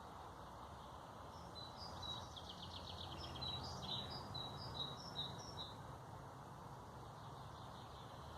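A small songbird singing a phrase of short, high, clear notes with a quick trill in the middle, lasting a few seconds. Underneath is a steady background hiss of outdoor ambience.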